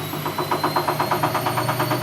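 Siemens Siwamat C10 washing machine running: its motor whine levels off after speeding up, and about half a second in a rhythmic pulsing of about six beats a second sets in and grows louder as the drum turns.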